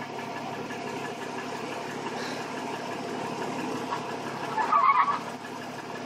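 Off-road 4x4 engine running steadily at a low idle as it crawls over rock, with a brief high squeak about five seconds in, typical of suspension squeaking under flex.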